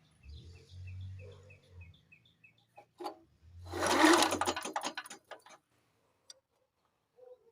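Pull-start rope pulled twice, spinning over a 1972 Briggs & Stratton lawnmower engine during a spark check. The engine turns over with a fast mechanical whir, the second pull louder and ending in rattling clicks, and it does not fire: there is no spark.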